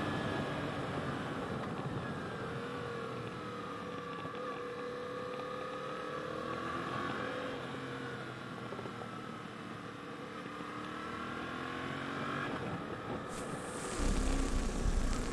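Yamaha XSR700's parallel-twin engine running under way, its pitch rising and falling with the throttle, over steady wind noise. The wind rush grows louder and rumbles near the end.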